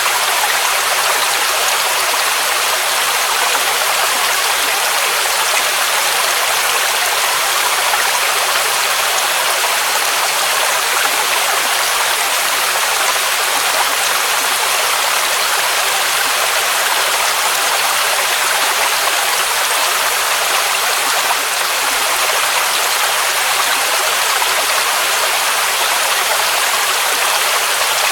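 Waterfall rushing steadily, an even hiss-like roar of falling water, heavy in the upper range and light in the bass.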